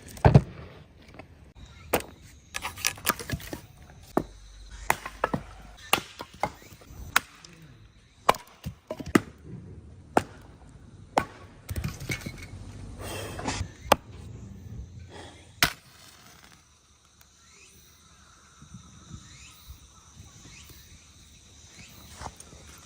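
Husqvarna axe splitting firewood: a series of sharp chopping strikes and wood cracking, roughly one a second, that stops about two-thirds of the way through.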